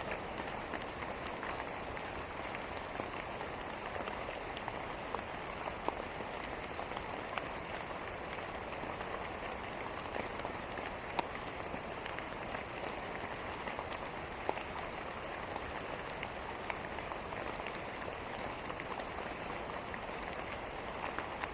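Steady rain falling, an even hiss of water with scattered sharp drop ticks throughout.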